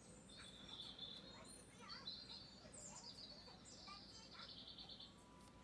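Faint birdsong: several birds chirping and whistling, with a rapid trill about four seconds in.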